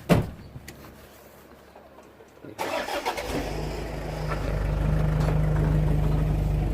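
An engine starting about two and a half seconds in, after a single knock near the beginning, then running steadily with a low hum that grows a little louder and holds.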